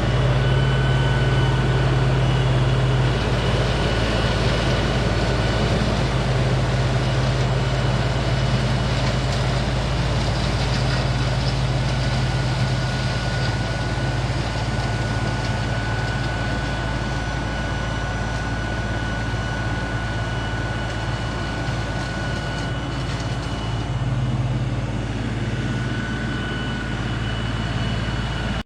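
Compact diesel tractor engine of an LS MT3 running steadily, with a faint high whine over the low engine note.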